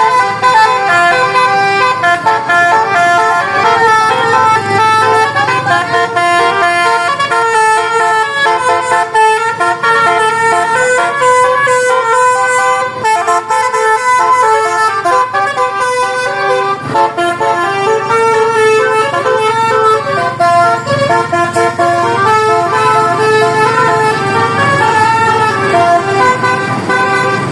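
Multi-tone musical bus horn playing a continuous melody, several horn notes sounding together and changing pitch step by step, over a low engine rumble.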